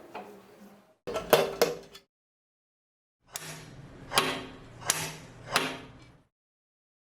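Metal clicks and knocks from a Facit typewriter's mechanism being handled, in short bursts separated by dead silence: a quick double click about a second in, then three sharp knocks with a ringing tail, evenly spaced, in the second half.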